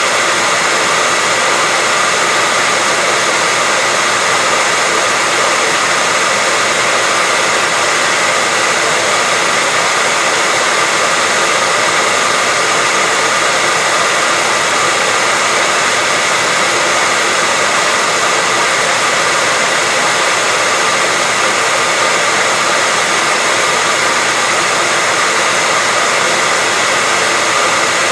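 Hairdryer running steadily on one setting, a constant airy rush of fan and air with a faint steady whine, unchanging throughout.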